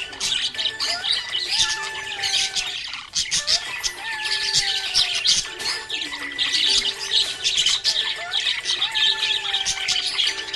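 A flock of budgerigars chattering and chirping in a rapid, continuous stream of high squawks and tweets. A soft melody repeats underneath every few seconds.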